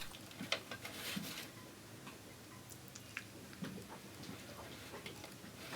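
Faint, scattered small clicks and light taps from hands handling the trolling motor's wiring and parts, with several sharper ticks spread through.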